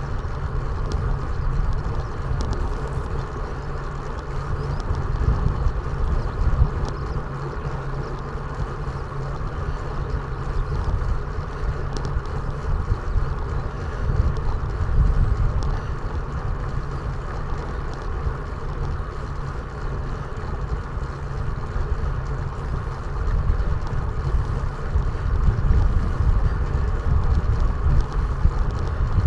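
Wind buffeting an action camera's microphone during a ride: a steady low rumble that swells in gusts, over fainter vehicle running noise.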